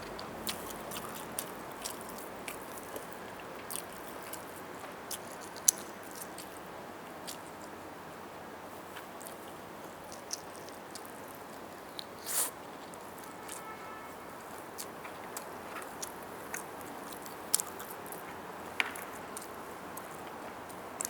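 Close-miked chewing and biting of roast chicken: irregular wet mouth clicks and smacks over a steady background hiss, with a louder crunchy bite about twelve seconds in.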